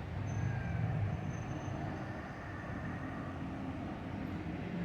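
Distant road traffic from the town below: a steady low hum of cars.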